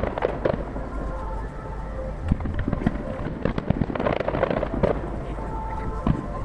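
Aerial fireworks shells bursting one after another, a dense run of sharp bangs with echoes, heard from far off and played back at triple speed so the reports crowd together.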